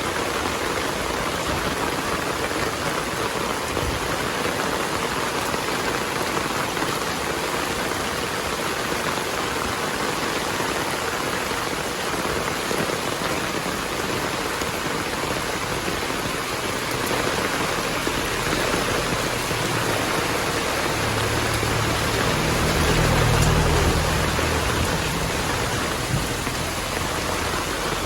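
Heavy rain falling steadily. Past the middle, a low rumble of distant thunder swells for a few seconds and fades.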